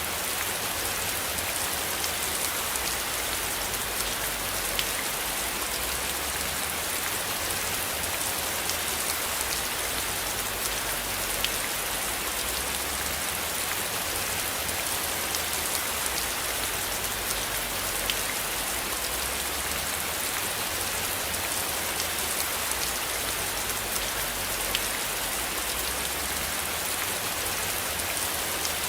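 Steady rain falling as an even, dense hiss, with individual raindrops ticking sharply through it now and then.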